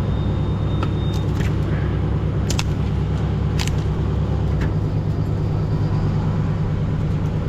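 An engine running steadily at a constant speed, with about five sharp knocks or clicks over the first five seconds.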